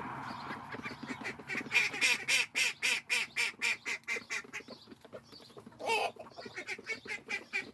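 Call ducks quacking excitedly in fast runs of short calls, several a second, while being fed, with one lower, longer call about six seconds in.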